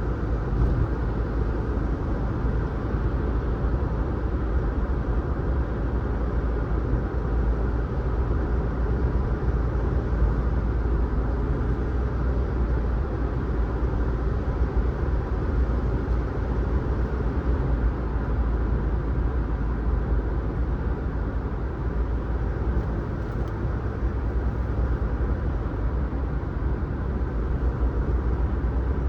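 Steady road and engine noise of a car being driven, an even low rumble without any distinct events.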